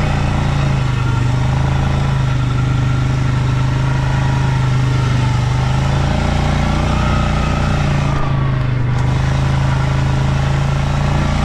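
Stels Leopard 650 ATV engine running at a steady speed under way.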